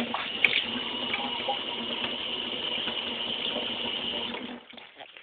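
Water running steadily from a tap, shut off about four and a half seconds in.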